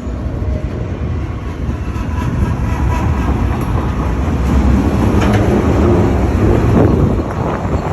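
Freight train of autorack cars rolling past close by: a steady rumble of wheels on rail with faint clicks, growing louder a little past halfway.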